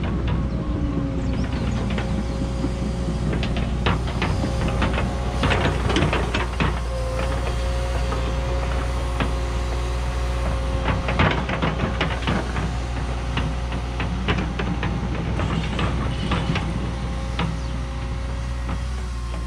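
Cat 314E excavator's diesel engine running steadily under load with a steady hydraulic whine, and clusters of scraping knocks as the machine works the ground, several seconds in and again near the middle and later.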